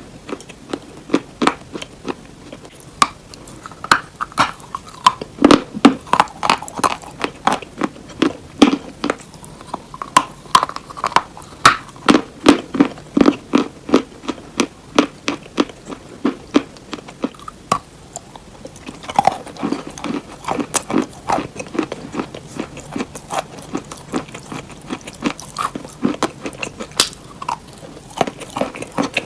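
Close-up crunching and chewing of hard, crunchy cheese, with sharp crisp crunches several times a second and a brief lull about two-thirds of the way through.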